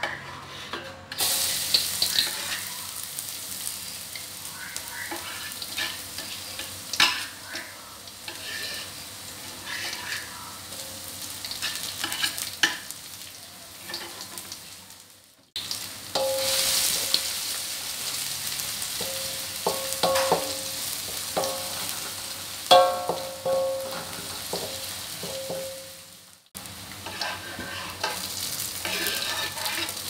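Minced garlic and shallots sizzling in hot oil in a metal wok, stirred with a wooden spatula that knocks and scrapes against the pan, some strokes making the wok ring briefly. The sizzle starts about a second in and breaks off abruptly twice.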